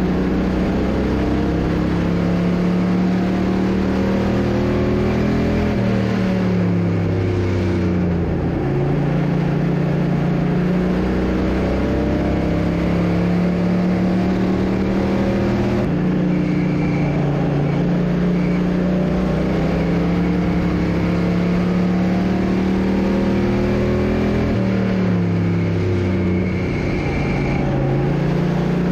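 Race car's engine heard from inside the car on track, held high on the straights. Its revs fall off and climb back as the car goes through the turns, once about six seconds in and again near the end.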